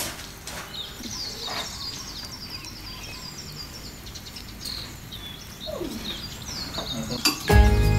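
Small birds chirping, many short high repeated chirps. Background music comes in loudly near the end.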